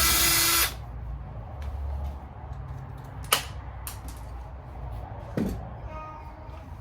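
A power drill runs in one short burst of under a second, backing out an engine-case bolt. It is followed by a few sharp metallic clicks and knocks as tools and parts are handled.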